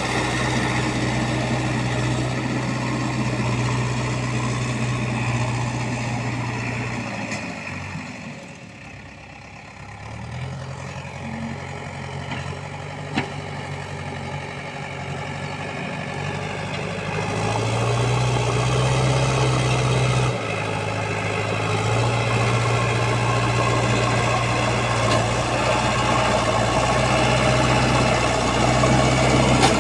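Heavy diesel machinery engine running at a JCB backhoe loader loading soil into a tractor trolley. The engine drops away for a couple of seconds about a quarter of the way in, then picks up again and grows louder later on, with a single sharp click in between.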